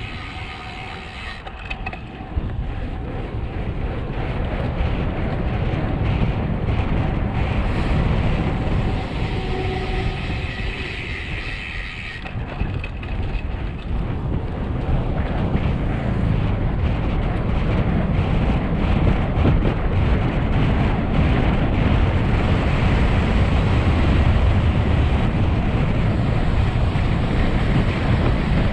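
Heavy wind rushing over the microphone of a camera on a road bike descending at speed, growing gradually louder as the bike picks up speed, with a few faint brief tones early on.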